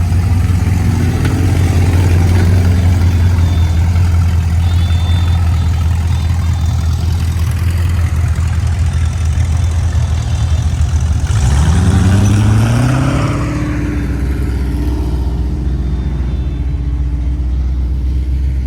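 Car engines running with a steady deep idle, and one car revving up with a rising pitch about eleven to thirteen seconds in.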